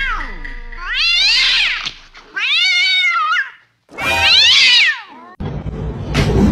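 A cat yowling loudly in several long, drawn-out meows, each rising and then falling in pitch, in an argument between cats. About a second before the end the calls give way to a rough, noisy scuffling sound.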